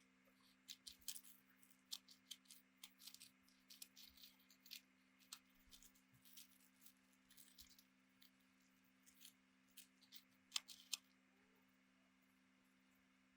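Faint, irregular clicks and snips of small hand tools at work on electronics, a few each second, over a steady low hum; they stop after about eleven seconds.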